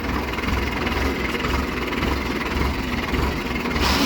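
Farm tractor's diesel engine running steadily with a low, pulsing beat while hauling a load of paddy over a dirt road, with a short burst of rushing noise near the end.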